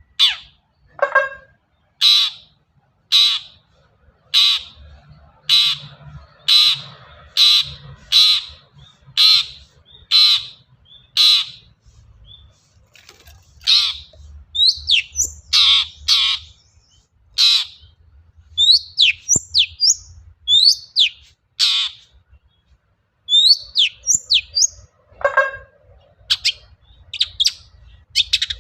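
Long-tailed shrike singing. It opens with a steady series of sharp, evenly spaced calls about one a second, then breaks into a quicker, irregular run of varied, down-slurred notes.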